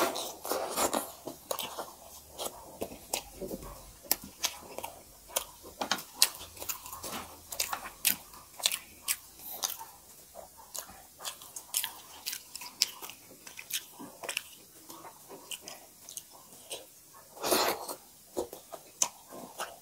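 Two people eating maize dhido and chicken curry with their hands: wet chewing and lip smacking, a dense run of short sharp clicks, with a longer, louder burst at the start and again near the end.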